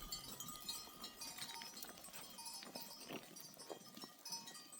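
A flock of sheep and goats, faint, with scattered short clicks and knocks.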